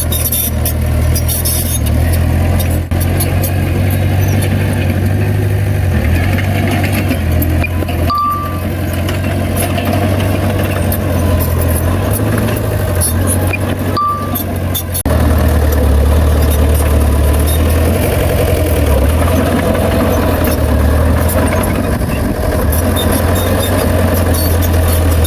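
Heavy diesel engine of earthmoving equipment running steadily and low-pitched, getting louder about halfway through. A short high beep sounds twice, about six seconds apart.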